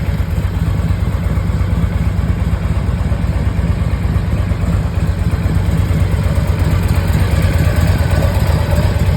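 2006 Harley-Davidson Ultra Classic Electra Glide's Twin Cam 88 V-twin engine idling steadily, a dense low rumble.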